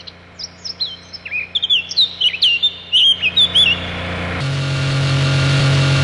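Small birds chirping in a quick run of short, falling chirps. About four seconds in, a motor vehicle's engine hum comes in and grows louder, holding steady near the end.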